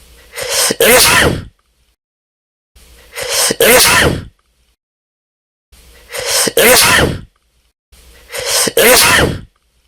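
A person sneezing four times, two to three seconds apart: each sneeze is a short drawn-in breath followed by a loud, sharp burst.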